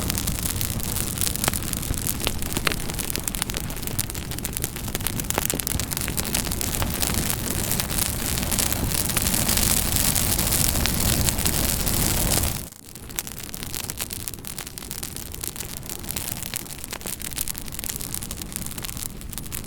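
Campfire burning with a steady hiss and many sharp crackles and pops of burning wood. About twelve and a half seconds in, the sound drops suddenly to a quieter, thinner crackle.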